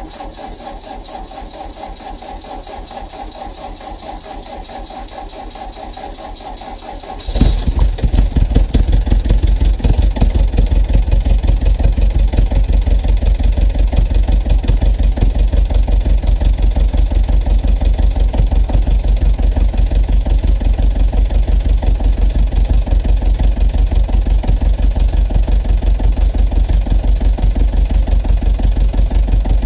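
Fiat Ducato 2.5 turbo diesel, a four-cylinder, being cold-started in frost. The starter motor cranks with an even beat for about seven seconds. The engine then catches suddenly and loudly and settles into a steady, rhythmic idle.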